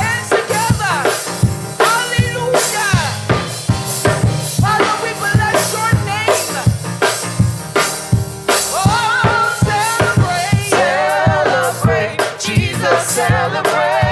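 Live gospel praise music: a drum kit keeps a steady, upbeat groove with band accompaniment, and singing comes in more strongly in the second half.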